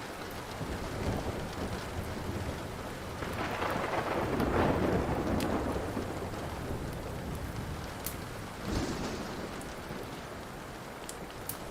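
Steady rain with a roll of thunder that swells and fades about three to six seconds in, and a smaller rumble near the end. A few sharp crackles of burning wood pop now and then.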